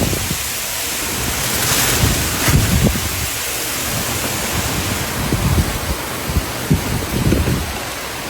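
Strong typhoon wind blowing over a steady rushing hiss, with irregular gusts buffeting the microphone in low rumbles.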